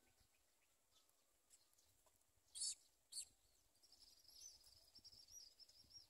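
Faint bird chirping: two short, sharp chirps about two and a half and three seconds in, then a quick run of thin, high chirps over the last two seconds.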